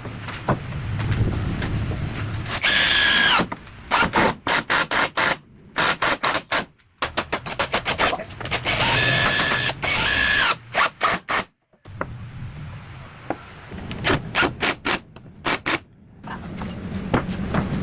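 Workshop tool noise: quick runs of sharp metallic knocks and clicks, broken by abrupt cuts, with two short bursts of a whining power tool.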